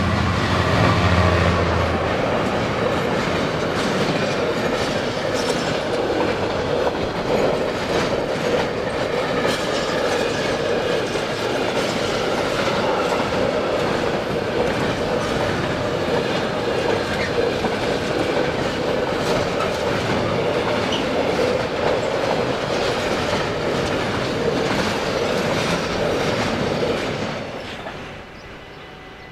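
A train passing over a level crossing: a steady loud rush of wheels on rail with clickety-clack from the wheelsets over rail joints. It dies away quickly near the end as the last car clears.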